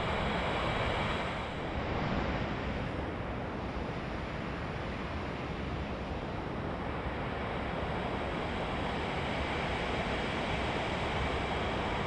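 Steady rush of water pouring down a waterfall, an even, unbroken wash of noise.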